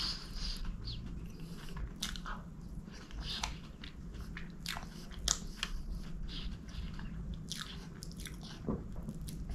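Close-miked chewing and wet mouth sounds of eating soft chocolate cake, with irregular sticky clicks and smacks.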